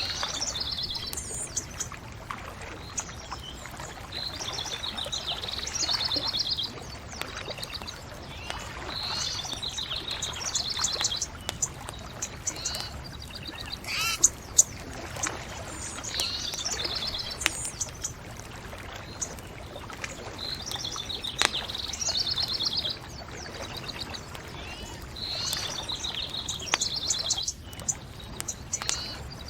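A songbird singing short trilled phrases, one every two to three seconds, with a few sharp pops from a crackling bonfire among them.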